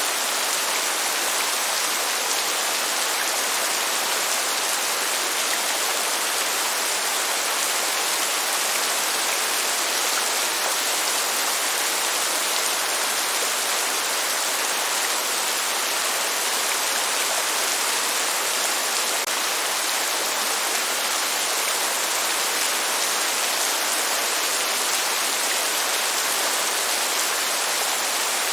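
Steady heavy rain falling, an even hiss that does not change, with no thunder.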